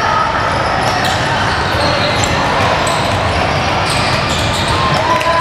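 Basketball game in a gym: a basketball bouncing on the court, with a steady din of voices from players and spectators.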